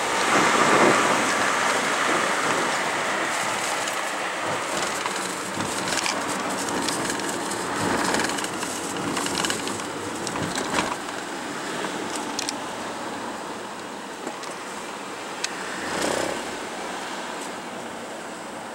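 Cars passing on a road, each swelling and fading over a few seconds (near the start, about halfway and near the end), over a steady rushing background.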